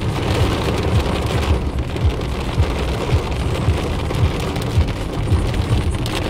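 Heavy rain pelting a car in a storm downpour, heard from inside the car, over a steady low rumble. A short low thump recurs about twice a second.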